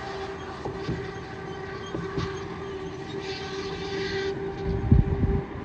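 A horn held on one long, steady note, with a few low thumps about five seconds in.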